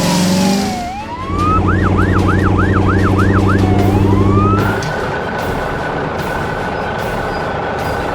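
Cartoon emergency-vehicle siren: a wail that dips and rises, then a fast yelp of about three sweeps a second, then a steady held tone. Under the yelp a vehicle engine hums low, and it stops about five seconds in, leaving the held siren over a steady rushing noise.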